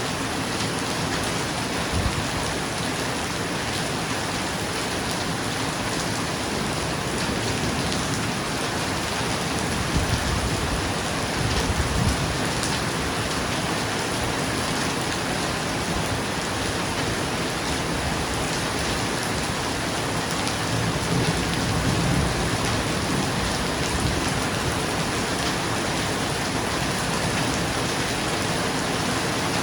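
Steady rain on a roof, with low rolls of thunder rumbling up about ten seconds in and again about two-thirds of the way through, and a short low thump about two seconds in.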